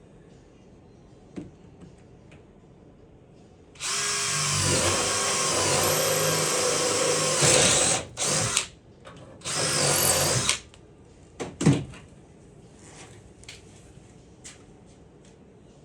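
Power drill boring into a thick steel floor patch plate: one run of about four seconds, then a short burst and a second run of about a second, its pitch dipping and rising under load. A couple of sharp knocks follow.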